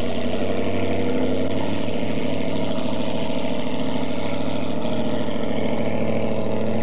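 Motorboat engine idling, a steady low hum that holds the same speed throughout.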